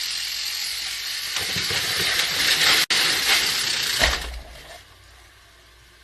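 A loud rushing hiss that builds, with a brief break about three seconds in, a low thump about four seconds in, then dying away to a faint steady hiss.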